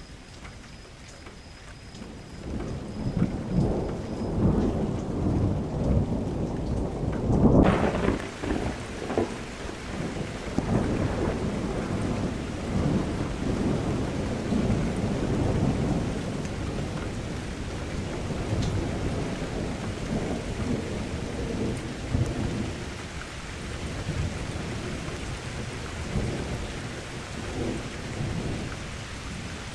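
Rain with a long roll of thunder: a low rumble builds from about two seconds in, is loudest near eight seconds, then rolls on in swells and dies away near the end. The rain hiss gets suddenly louder at the thunder's peak.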